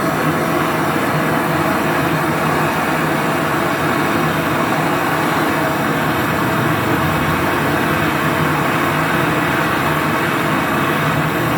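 A steady machine noise, a constant low hum over an even hiss, with no change in level.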